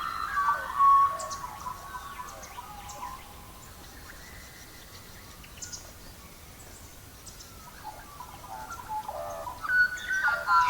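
Songbirds chirping in short phrases at the start and again near the end, quieter in the middle, with faint scattered crackles of a wood fire throughout.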